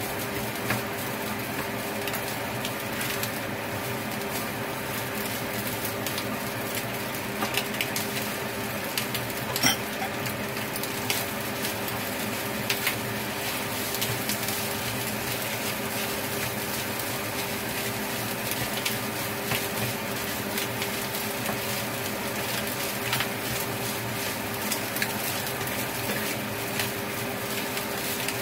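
Rice frying and sizzling in a pan while a spatula stirs and scrapes it, with scattered light clicks and taps of the spatula against the pan, over a steady hum.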